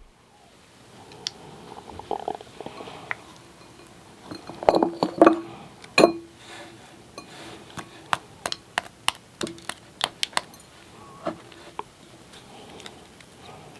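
Hard ice cubes clinking against glass: a series of sharp separate clinks, some ringing briefly, the loudest about a third of the way in and a quick run of clinks in the middle.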